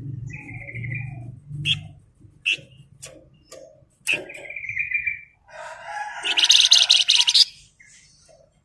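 Flamboyan songbird singing in bursts: short level trilled phrases and sharp chips, then a loud, dense rattling trill near the end.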